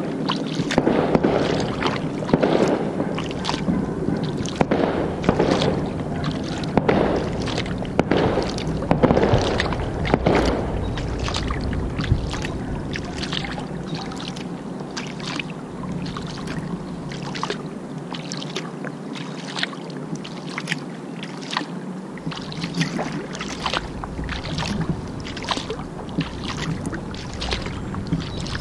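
Kayak paddle strokes: the blades dipping and splashing in the water in a steady rhythm, about one heavier stroke a second at first, then lighter, quicker splashes. A steady low hum runs underneath.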